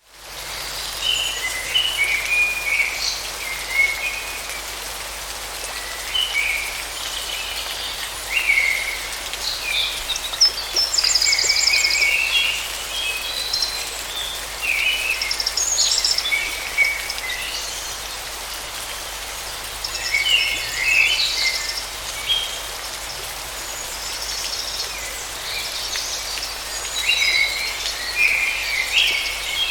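Forest stream running steadily, with many birds singing and calling over the water, including a fast trill about ten seconds in.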